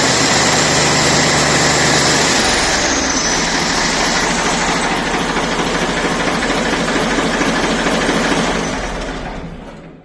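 Ford 3600 tractor engine running steadily at idle, its low tone shifting slightly about two seconds in. The sound fades out near the end.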